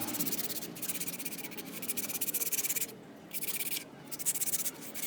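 Abrasive scrubbing on a rusty part of an old Bosch angle grinder, in passes with short breaks about three seconds in and again just before four seconds.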